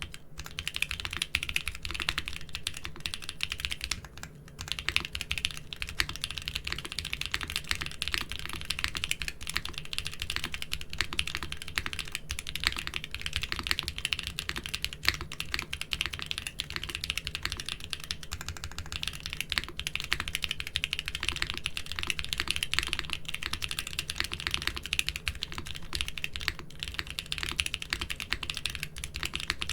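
Fast, continuous typing on a mechanical keyboard fitted with doubleshot keycaps, a dense stream of key clacks, with a brief pause about four seconds in.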